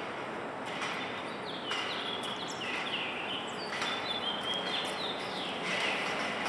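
Songbirds singing: a run of short, high whistled chirps, many sliding down in pitch, repeating from about a second and a half in, over a steady background hiss.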